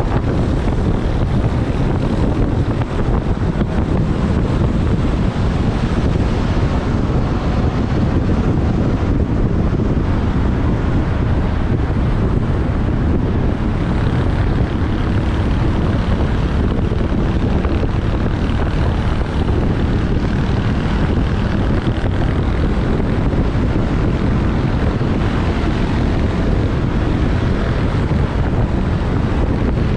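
Motorbike riding through traffic, its engine running steadily under loud, even wind noise on the microphone.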